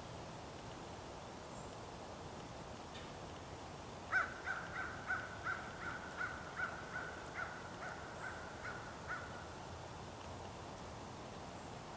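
A bird calling a run of about a dozen short, evenly spaced notes, the first the loudest and the rest fading away over some five seconds, over a faint steady hiss of outdoor background.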